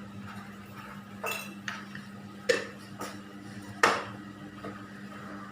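Metal cooking utensils clinking against a pot or pan, about five short sharp knocks spaced unevenly over a few seconds.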